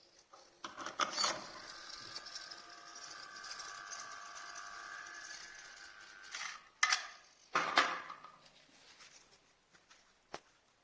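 Small servo motors of a robot arm whirring with a steady whine for about six seconds, then two sharp knocks as the arm stops or sets something down.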